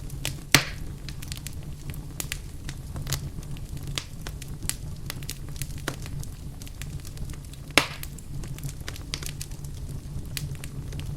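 Wood fire crackling in a fireplace: many small snaps over a steady low rumble of the flames, with two sharp, louder pops, one about half a second in and another about two-thirds of the way through.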